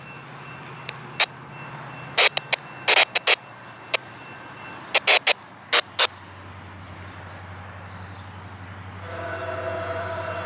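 Approaching train: a steady low drone with a pitched hum that grows louder about nine seconds in. Several irregular sharp clicks sound over it in the first six seconds.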